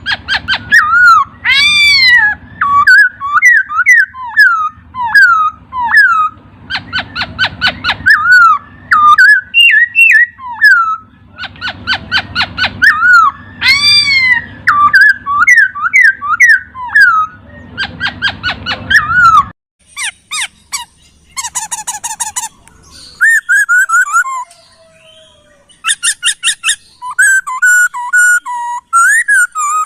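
Poksay (laughingthrush) singing: loud, rapid runs of clear whistled notes sliding down in pitch, broken by short chirps and fast high trills. A low hum sits underneath and stops about two-thirds of the way through.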